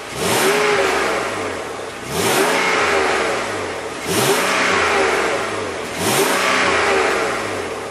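BMW E39 530i's straight-six engine being revved through a Pico Sound variable exhaust: four quick blips of the throttle about two seconds apart, each rising sharply and dropping back toward idle.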